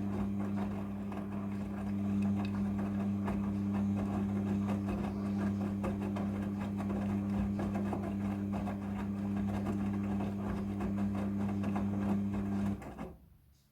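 Midea front-loading washing machine turning its drum in a wash rotation: a steady motor hum with the load of clothes and water churning and knocking inside. The motor stops abruptly near the end.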